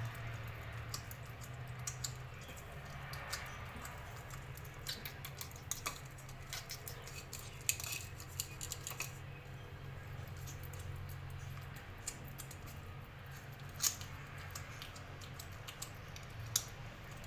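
Hungry rescue kitten eating from its food dish: irregular small clicks and clinks as teeth and claws knock against the dish, over a low steady hum.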